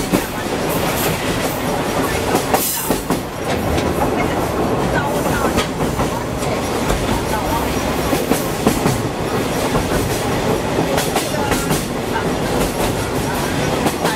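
Sagano Romantic Train running along the track, heard from aboard: a steady rumble of the carriage with the wheels clicking over the rails.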